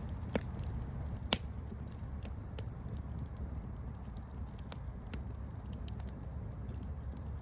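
Wood fire burning with a steady low rumble and scattered sharp crackles, one louder pop about a second in.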